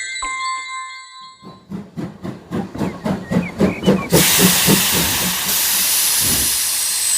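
Steam train sound effect: a short steady tone, then a run of chuffs that quicken, giving way about four seconds in to a loud, steady hiss of steam.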